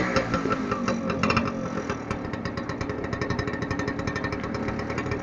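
Big motorcycle engine dropping back from a rev and idling, with a rapid, even firing beat that settles slightly quieter after the first couple of seconds.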